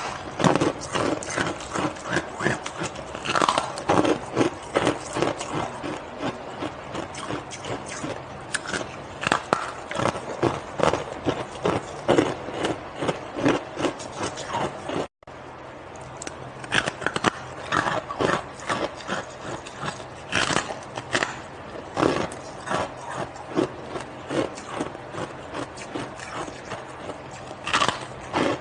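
Teeth biting and crunching hard, crusty shaved ice, with sharp crunches following each other several times a second. There is a split-second break in the sound about halfway through.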